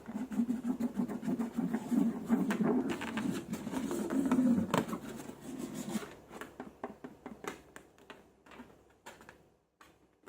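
Slime being squeezed and kneaded by hand, making dense sticky squishing and crackling clicks for about six seconds, then thinning to scattered clicks.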